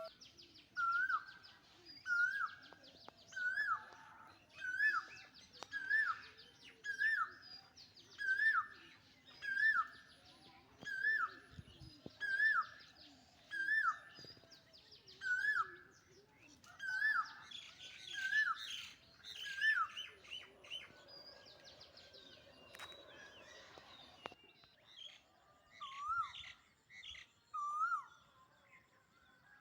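Birdsong: one bird repeats a short whistled call about once a second, each call rising and then dropping in pitch, over fainter high twittering from other birds. The calls stop for a few seconds near two-thirds of the way through, then return more slowly.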